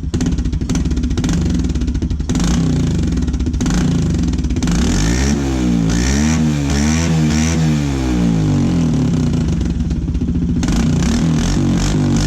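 Kawasaki 110 dirt bike's single-cylinder engine running through a homemade plastic muffler, revved up and down several times in the middle before settling back to a steady run.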